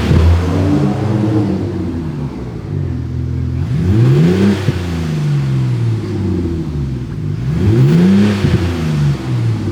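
THOR electronic exhaust speakers on a diesel Mercedes CLA 200 playing a simulated sporty engine note, revving up and dropping back three times, about every four seconds.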